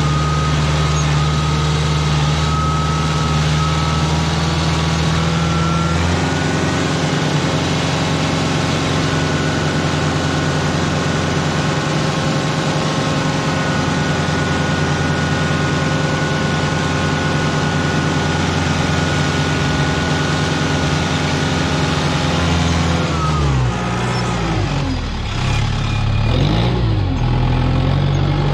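Kubota tractor engine running steadily under a constant throttle. Its pitch steps once about six seconds in, then drops and rises a few times near the end as the revs change.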